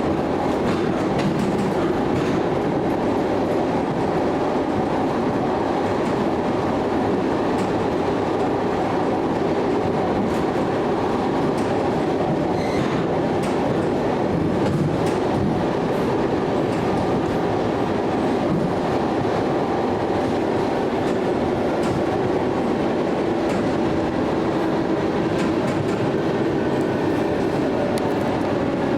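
ED9M electric multiple unit running along the line: a steady rumble of wheels on rails with clickety-clack over the rail joints. A faint whine comes in near the end.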